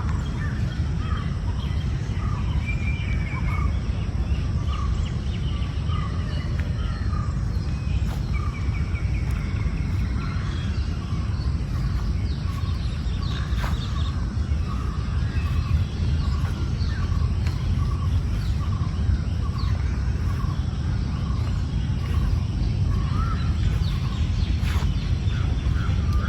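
Birds calling: a long run of short, evenly repeated notes, with scattered higher chirps over the top, above a steady low rumble.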